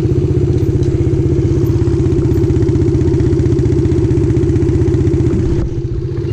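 Dirt bike engine running at a steady throttle with an even firing beat. It eases off about five and a half seconds in.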